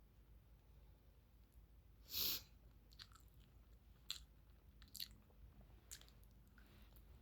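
A person eating close to the microphone: quiet chewing, with one short, louder noisy sound about two seconds in and several sharp clicks spread through the rest.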